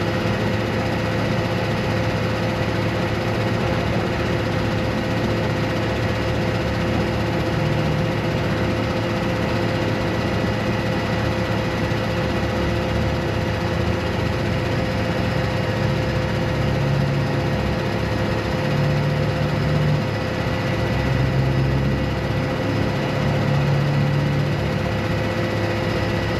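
A vehicle engine running steadily, with a constant whine over it. Its low hum steps up briefly several times in the second half.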